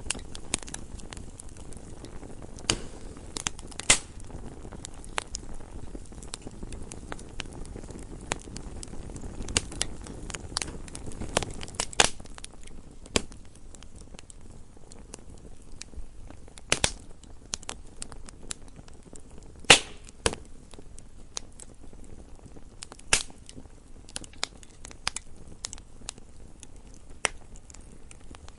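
Wood fire burning in a fireplace: a low steady rumble of flames with frequent crackles and several louder pops of burning logs.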